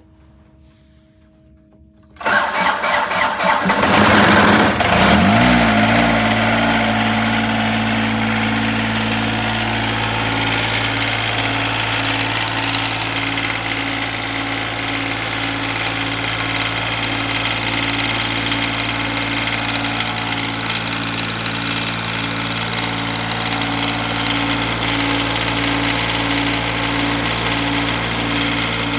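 Cold start of a John Deere 455's three-cylinder diesel engine at 15°F after sitting for weeks. About two seconds in the starter cranks, the engine catches within a few seconds and runs up, then it settles into a steady, even idle. It starts easily, which the owner puts down partly to a turned-up fuel pump.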